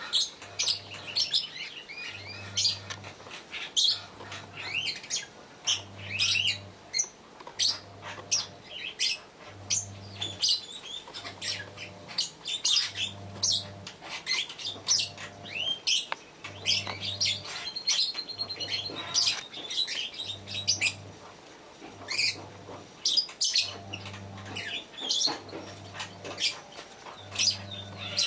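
Lovebirds chattering in rapid, sharp, high-pitched chirps and squeaks throughout, with a faint low hum pulsing about once a second underneath.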